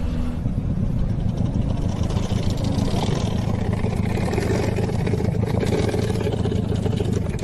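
Car engine running steadily with a rough, rapid pulsing and a low hum.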